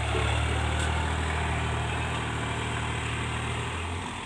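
Tractor diesel engine running at a steady speed, its note fading near the end.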